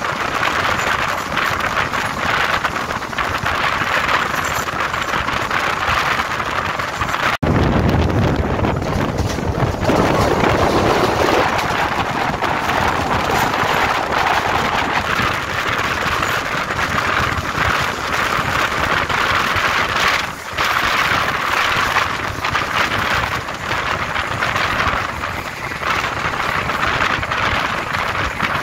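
Diesel-hauled passenger train running at speed: a steady rush of wind and rolling noise. It breaks off abruptly about seven seconds in, and for a few seconds after that it carries more low rumble.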